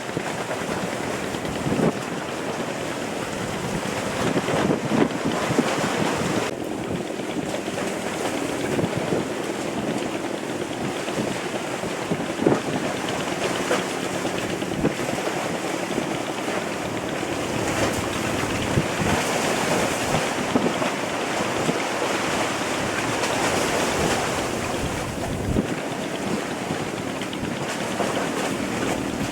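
Sea water rushing and splashing against a fishing boat's hull, with wind buffeting the microphone and a steady engine hum underneath.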